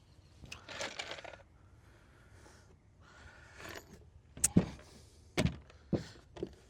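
Wood being handled during deck building: rustling and scraping, then four sharp knocks in the last two and a half seconds, the first the loudest.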